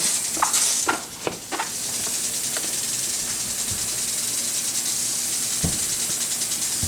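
Motion-activated sprinkler spraying water: a steady hiss with a fine, fast ticking in it, and a few knocks in the first couple of seconds.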